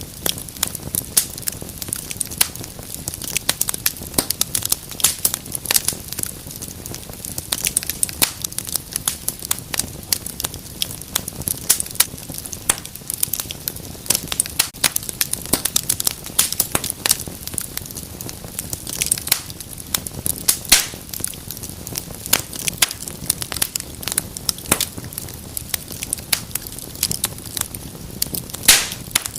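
Wood fire burning in a fireplace, crackling steadily with many sharp, irregular pops over a low rush of flame.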